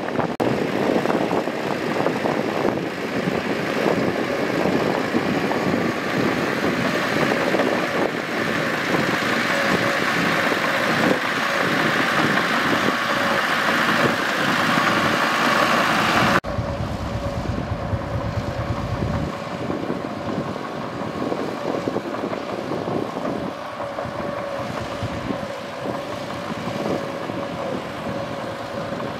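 Mitsubishi bulldozer's diesel engine running as the machine works. About halfway through the sound changes abruptly to a somewhat quieter, steadier running with a steady whine.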